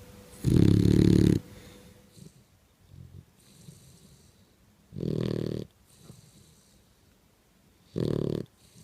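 Boxer dog snoring in its sleep: three loud snores about three to four seconds apart, the first the loudest, with faint breathing between.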